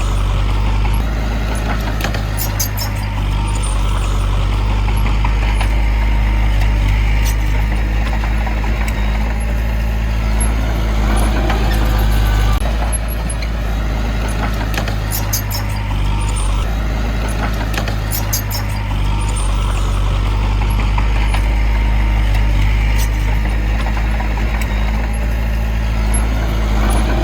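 Heavy diesel construction machinery running steadily under load, with scattered sharp metallic clicks and squeaks now and then.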